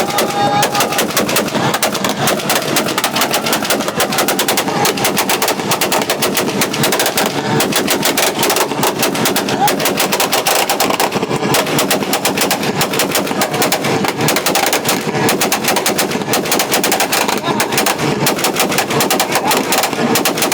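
A car held on a two-step launch-control rev limiter, its exhaust giving a fast, unbroken string of loud pops and bangs.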